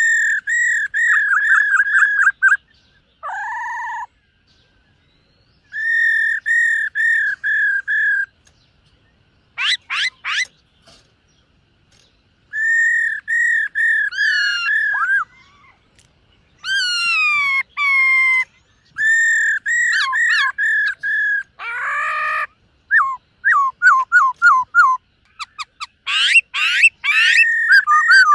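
Black-throated laughingthrush singing loud whistled phrases. These are quick runs of repeated clear notes at much the same pitch, broken by steep rising and falling sweeps and short pauses.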